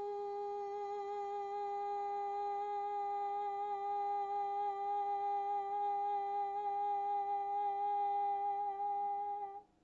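A woman's voice toning one long, steady hummed note with a slight waver, held as a meditation tone, that stops just before the end.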